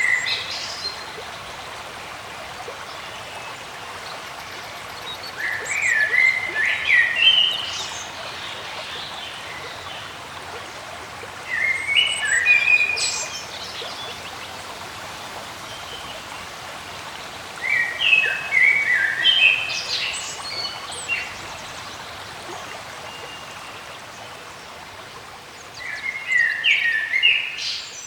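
A songbird singing the same short phrase over and over, about once every six seconds. Each phrase is a quick run of notes climbing from low to high, heard five times, over a steady background hiss.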